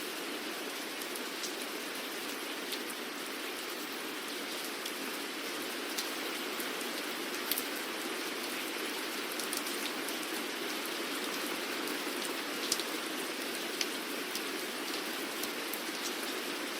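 Steady rainfall: a dense, even hiss of rain with scattered individual drops ticking sharply on a surface.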